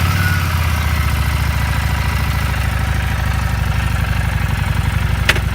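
Fuel-injected motorcycle engine idling steadily in neutral right after starting, with a single sharp click about five seconds in.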